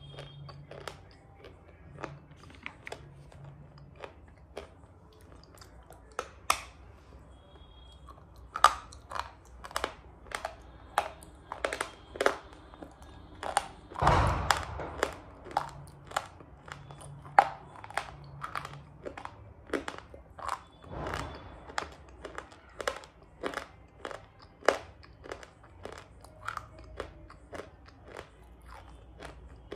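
A person chewing dry, brittle shale (edible clay) in the mouth with sharp, crisp crunches. The crunches are sparse at first, then come several a second from about a third of the way in, with the loudest bite near the middle.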